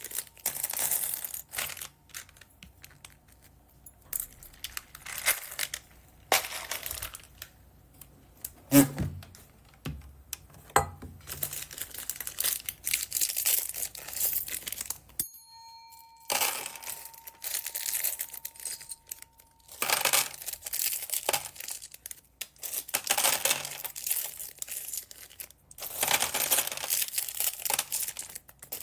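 Plastic packaging bags crinkling and tearing as they are handled and opened, in repeated bursts with short pauses. A few sharper knocks come about nine and eleven seconds in.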